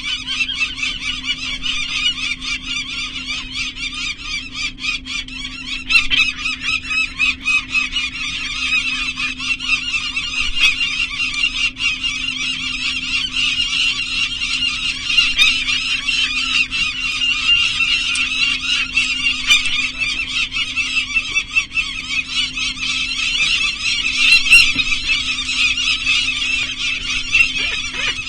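Peregrine falcons calling non-stop: a rapid, harsh, repeated cackling alarm at the disturbance of their nest. A steady low hum runs underneath.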